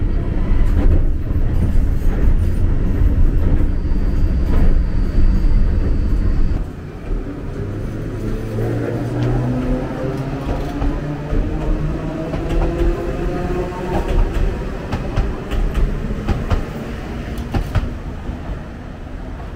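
Enoshima Electric Railway (Enoden) train: first a steady low running rumble from inside the moving car. About seven seconds in, after a sudden drop, an Enoden train passes close by at the trackside, its electric motor whine shifting in pitch, with sharp clicks from the wheels on the rails.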